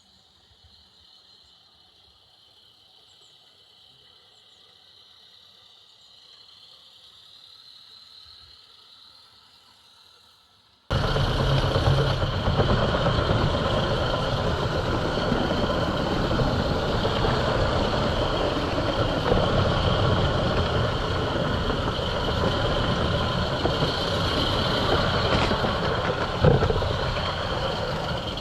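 Faint steady insect chirring at first, then, about eleven seconds in, an abrupt switch to the loud, steady running noise of a garden-scale model train on its track, heard close up, with the chirring still beneath it. One sharp knock near the end.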